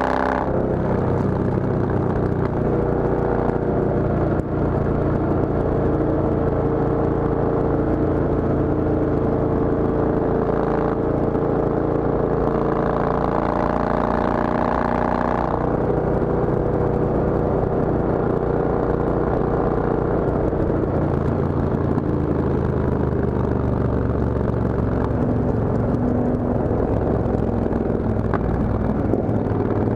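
Triumph Thunderbird's parallel-twin engine running steadily at highway cruising speed, recorded from a camera mounted on the bike. The engine note holds even, with a slight change in its tone about halfway through.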